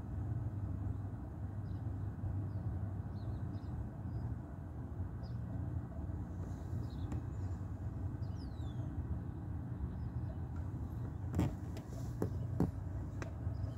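Steady low rumble of a car engine idling, with faint high chirps in the background and two sharp clicks near the end.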